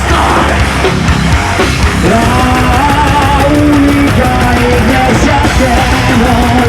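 Live heavy metal band playing: distorted guitars, bass and drums at full volume. About two seconds in, a melodic lead line of held, stepping notes comes in over the heavy low end.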